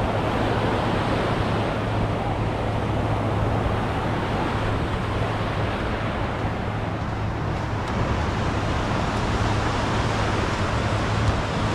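Steady seaside ambience: surf washing on the beach mixed with passing road traffic, and some wind on the microphone.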